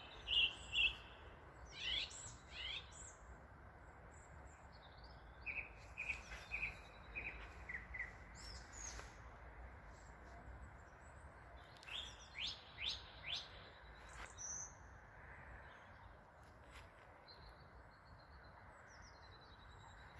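Songbirds singing in short, separate phrases: clear whistled notes at the start, quick sweeping notes about two seconds in and again around twelve to thirteen seconds, and a run of notes stepping down in pitch between about five and eight seconds in. A faint steady hiss lies under them.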